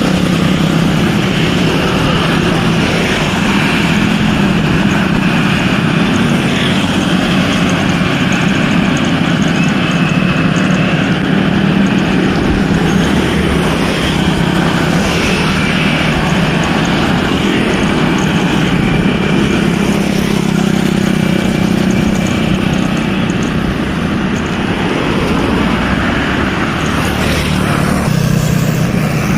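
Steady road and vehicle noise: motor engines running without a break, with no single event standing out.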